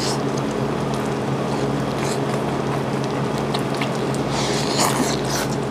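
A man chewing food close to a handheld microphone, with scattered small clicks and mouth sounds, over a steady low hum.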